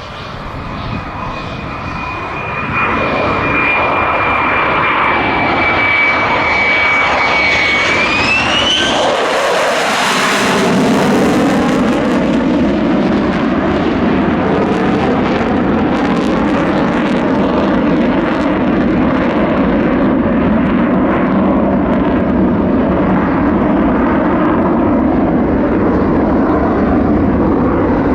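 Lockheed Martin F-35A Lightning II's F135 turbofan jet engine making a flypast. A steady high whine rises in pitch as the jet closes in, the pitch sweeps down as it passes about ten seconds in, and a loud, steady rumble follows.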